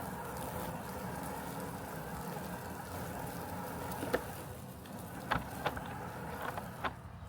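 Robotic lawn mower running with a steady hum. About two-thirds of the way through the hum thins, and a handful of short, sharp clicks come in the second half.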